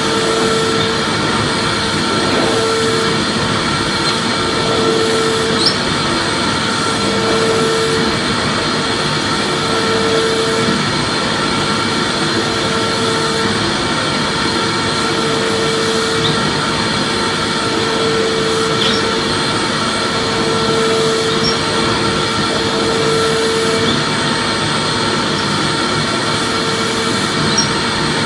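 Vacuum cleaner running steadily, a continuous motor whine and rush of air, with a low tone that swells and fades about every two and a half seconds.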